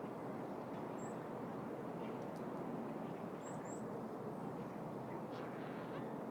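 City park ambience: a steady low hum of distant city traffic, with a few faint, short, high bird chirps over it, one about a second in and a quick pair past the middle.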